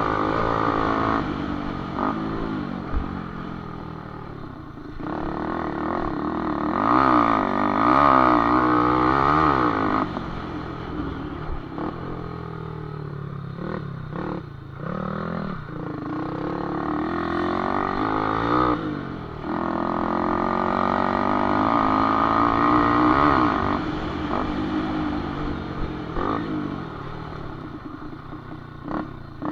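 Cup-cross motorcycle engines revving up and down, the pitch rising and falling again and again as the throttle opens and closes. The sound grows loudest twice, about seven and twenty seconds in.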